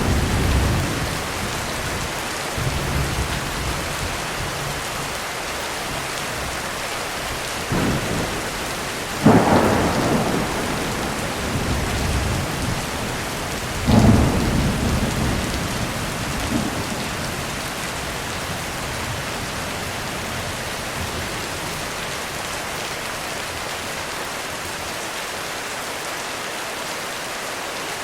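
Heavy thunderstorm: steady rain throughout, with thunder rumbling at the start and several thunderclaps in the first half, the loudest about nine seconds in and another about five seconds later. After that the thunder dies away and only the rain continues.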